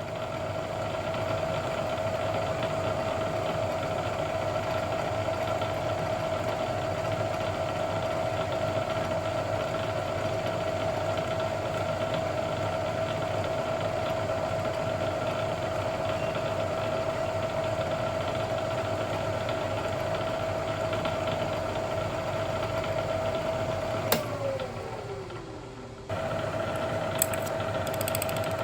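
Vertical milling machine spindle running at steady speed with a steady whine while an edge finder is used. About 24 seconds in there is a click and the whine falls in pitch as the spindle is switched off and spins down; then it is abruptly back at full speed.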